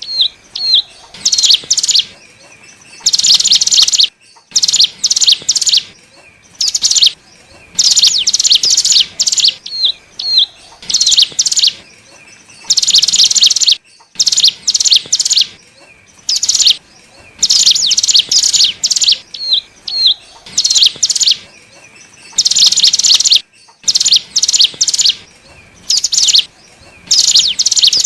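Ciblek gunung (cigun) singing loudly in rapid, high-pitched trilled bursts of about a second each, with short gaps and a few single chirps between them. The sequence repeats about every ten seconds: a looped lure-call recording used to draw in wild cigun.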